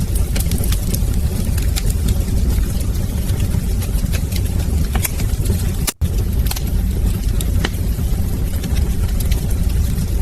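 Wood fire burning in a fireplace: a steady low rumble of flames with frequent sharp crackles and pops. The sound cuts out for an instant about six seconds in.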